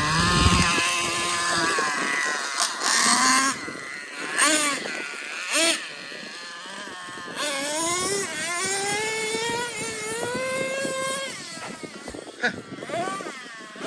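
Small nitro engine of a Traxxas Revo 3.3 RC truck revving up and down as the truck is driven, its pitch rising and falling, with several short bursts of hiss.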